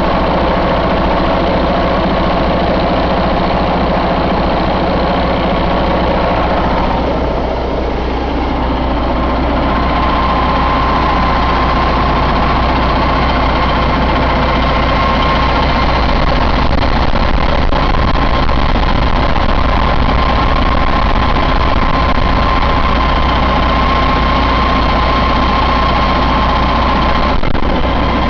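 Detroit DD15 inline-six diesel engine running steadily at idle. A dip in loudness comes about seven or eight seconds in, and after it a steady high whine is stronger.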